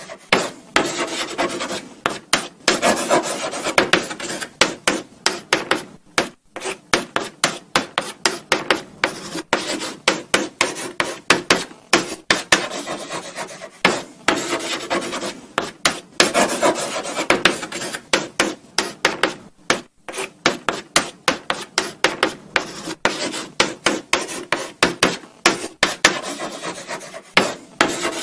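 Chalk writing on a blackboard: a run of short scratchy strokes with frequent light taps as the chalk meets the board, and brief pauses between letters.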